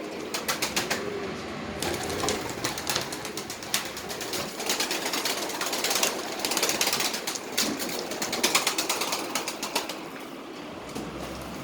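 A loft of Iraqi flying pigeons cooing, with a busy clatter of wing flaps and scuffling.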